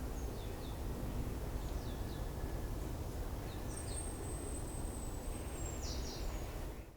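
Birds chirping in short high calls over a steady low outdoor rumble, with one thin high whistle held for about two seconds in the middle; the sound fades out near the end.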